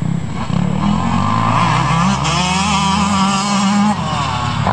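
Motocross dirt bike engine revving hard, its pitch climbing over the first couple of seconds, held high, then falling off about four seconds in.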